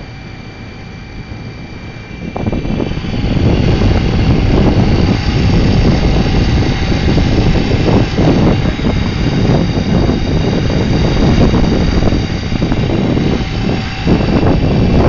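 Wind buffeting the microphone over a steady motor drone, jumping much louder about two and a half seconds in and then gusting unevenly.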